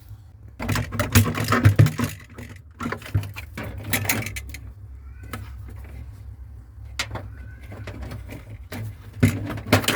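Irregular clattering, knocking and scraping of plastic and metal as screws are taken out and a refrigerator's ice maker is worked loose and pulled from the freezer, over a steady low hum.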